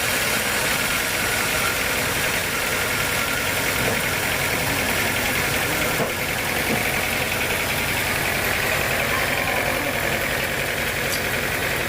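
Sawmill machinery running steadily: a continuous engine-like drone with a rattling texture.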